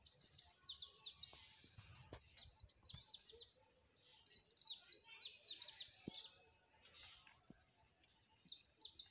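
Small birds chirping in fast runs of short, high, falling notes, in bouts, with a pause about six seconds in.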